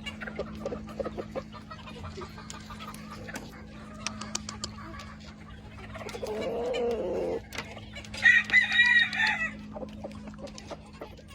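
Chickens clucking, with roosters crowing: a lower crow about six seconds in and a louder, higher one about eight seconds in.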